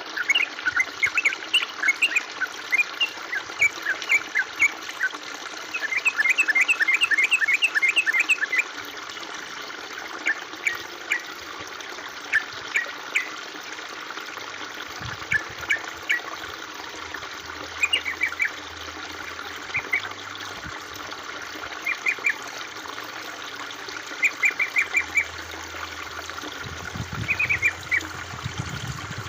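Steady trickling of running water, with small birds chirping over it in short notes and quick runs of repeated calls.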